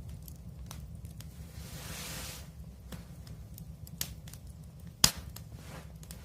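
Wood fire crackling over a steady low rumble, with scattered sharp pops, the loudest about five seconds in, and a brief hiss around two seconds in.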